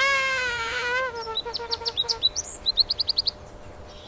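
Bird calling: a drawn-out, wavering call in the first second, then a quick run of short, high chirps that stops a little before the end.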